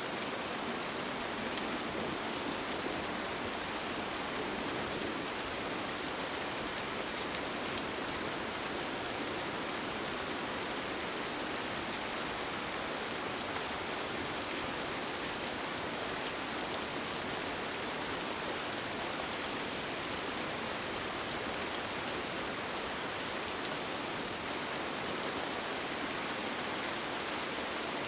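Steady rain: an even hiss with faint ticks of single drops, unchanging throughout.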